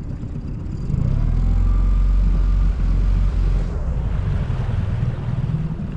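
Small outboard motor running steadily as the inflatable boat travels, a low rumble that swells about a second in and eases back after a few seconds.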